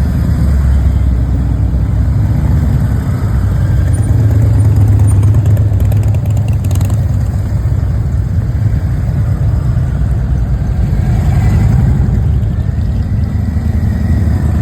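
Harley-Davidson motorcycle engines running, a steady deep rumble.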